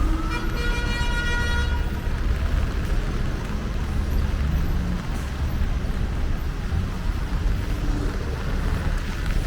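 Steady city street traffic rumble, with a vehicle horn sounding once for about a second and a half near the start.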